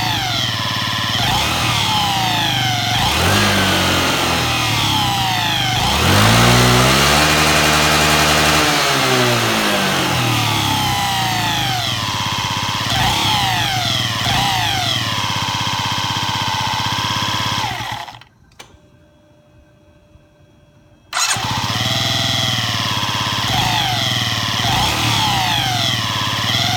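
Yamaha Jog ZR 50cc scooter engine running and being revved up and down again and again, with one longer, higher rev about a quarter of the way in. The engine makes an abnormal noise that the owner means to repair. The sound drops away for about three seconds past the middle, then the engine is heard again.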